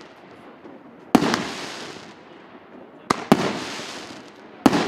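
An 88-shot, 1.5-inch consumer fireworks cake firing: four sharp bangs, one about a second in, two close together a little past three seconds, and one near the end. Each bang is followed by a fading tail of about a second.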